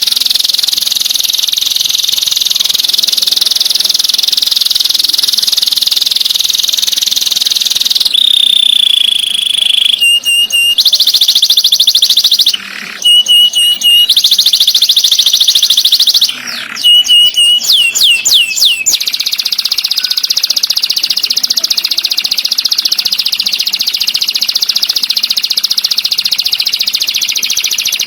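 Songbird song: a fast, continuous rolling trill. About eight seconds in it breaks into short phrases with brief gaps and clear whistled notes, then a run of quick falling notes, before the rolling trill resumes.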